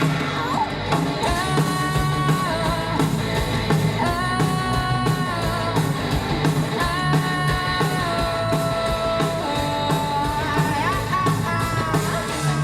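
Live rock band playing an instrumental break: drums and bass keep a steady beat under a held lead melody line that slides up in pitch a couple of times.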